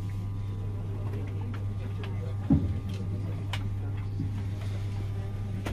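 Steady low hum inside a train carriage, with faint scattered clicks and one short thump about two and a half seconds in.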